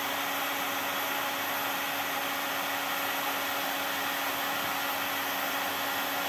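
Hot-air heat gun blowing steadily, a constant rush of air with a steady motor hum, used to heat and melt plastic bottle caps.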